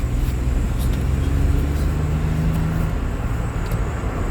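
Car engine and road rumble heard from inside the cabin while driving, a steady low drone with an engine tone that holds for a couple of seconds mid-way.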